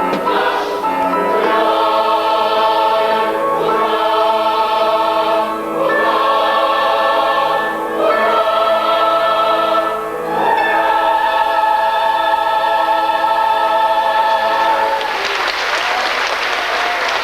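Boys' and young men's choir singing slow, sustained chords that change every couple of seconds. The singing ends about fifteen seconds in and applause breaks out.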